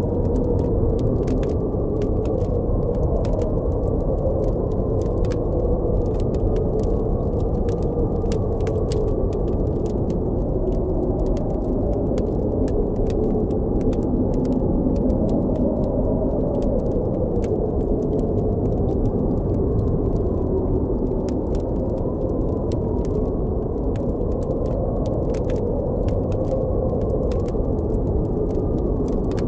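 Blizzard wind blowing steadily with a low, wavering howl that slowly rises and falls in pitch, over frequent sharp crackles and pops from a campfire.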